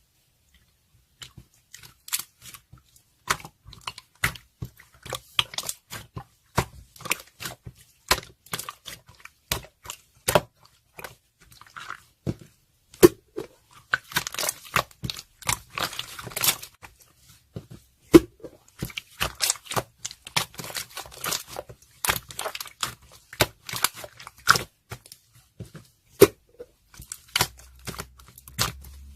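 Close-up crackling and tearing sounds: a dense run of sharp crackles, clicks and crinkles, with a longer stretch of rustling about halfway through.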